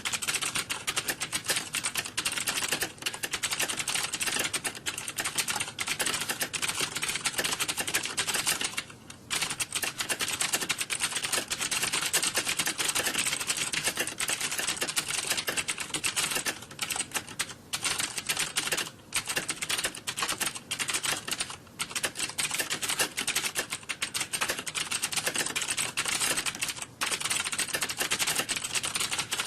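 Computer keyboard typing: rapid, dense key clicks with only a few brief pauses, like several people typing at once.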